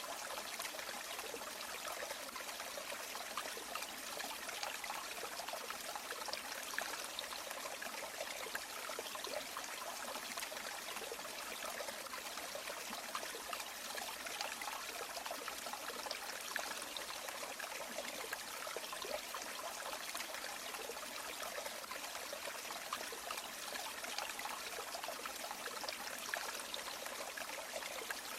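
River water flowing steadily: a continuous trickling rush with fine splashy flickers and almost no low rumble.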